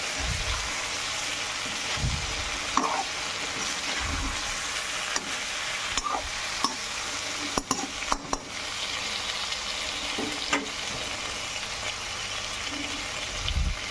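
Oil sizzling steadily in a metal kadhai as steamed stuffed brinjals fry, with scattered scrapes and clicks of a metal spatula gently turning them.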